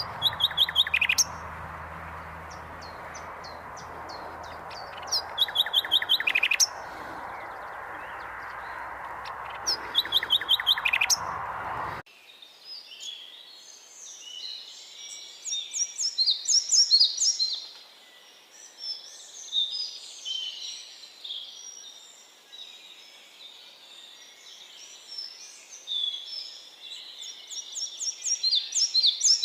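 Songbirds singing. For the first twelve seconds one bird repeats a short, fast trilling song about every five seconds over a steady rushing background noise. Then the sound cuts abruptly to a busier chorus of several birds chirping and calling, with the background gone.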